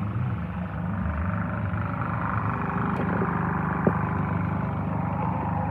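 Stock car engine running steadily with a low drone, and a short light knock about four seconds in.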